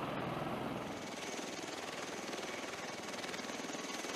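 Military rotor aircraft running, a rapid even beat from its rotors over a steady rush, with a thin high turbine whine coming in about a second in.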